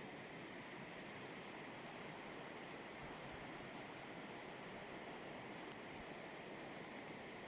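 River rapids rushing with a steady, even sound.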